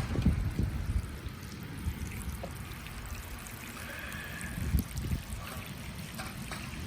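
Water from a garden hose trickling onto soil.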